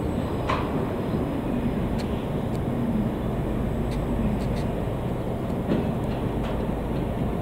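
Works railway freight wagons loaded with steel coils, making a steady low rumble with a faint wavering hum and scattered metallic clicks and knocks.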